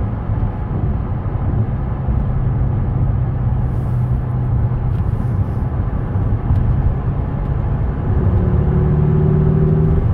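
Ferrari 488 Spider's twin-turbo V8 heard from inside the cabin while driving, a steady engine note over road noise. About eight seconds in the engine gets louder and its note climbs slightly as the car pulls harder.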